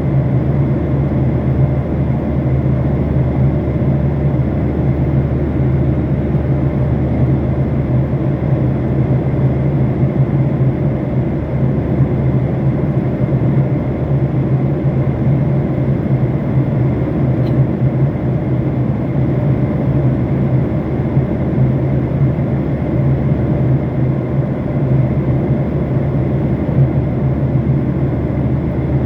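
Steady cabin noise of a passenger airliner in flight: a constant low rumble of engines and rushing air, with a faint steady hum above it.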